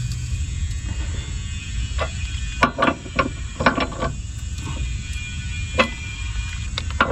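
Socket wrench on an extension working a subframe bolt: a run of sharp, irregular metal clicks and knocks about two to four seconds in, and one more near six seconds, over a steady low rumble.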